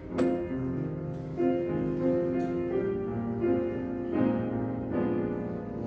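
Piano playing slow, sustained chords, with the chord changing every second or so.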